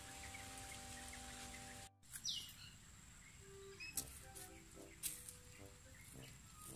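Soft background music that cuts off suddenly about two seconds in, leaving quiet outdoor ambience with birds chirping and a couple of sharp clicks.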